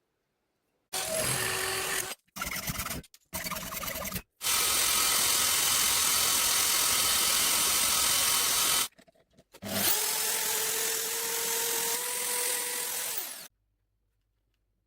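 Electric power drill running in three short bursts, then a long steady run, then a final run that spins up and stops abruptly about a second and a half before the end.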